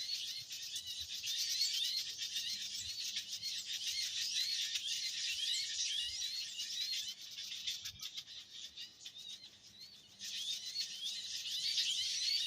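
Small birds chirping in a dense, noisy chorus: many short, high, rising chirps repeated quickly. The chirping thins out and quietens a little past the middle, then comes back strongly near the end.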